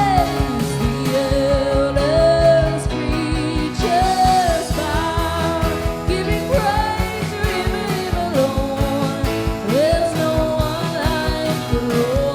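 Live worship band music: long, gliding melody notes with vibrato over held chords and a steady beat.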